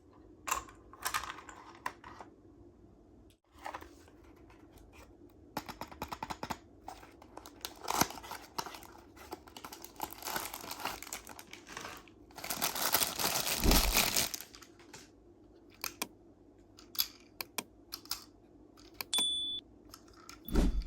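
Tomica miniature car packaging being handled: scattered quick clicks and taps with crinkling and tearing of paper and plastic, the loudest a dense crinkle or tear lasting about two seconds, about twelve seconds in.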